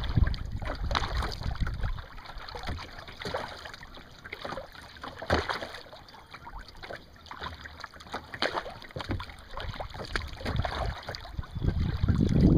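Kayak paddle dipping into calm water, with irregular small splashes and drips. Wind buffets the microphone at the start and again near the end.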